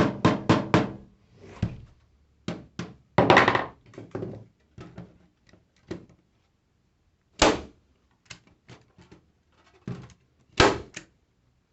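Hammer tapping down metal lath stapled onto a wood panel. A quick run of taps, about four a second, stops about a second in. Scattered single knocks and a short scrape follow, with two louder blows later on.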